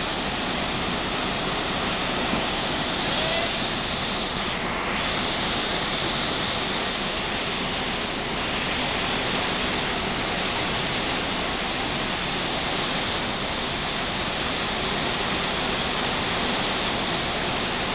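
Waterfall: a loud, steady rush of falling water, with a brief dip in the hiss about four and a half seconds in.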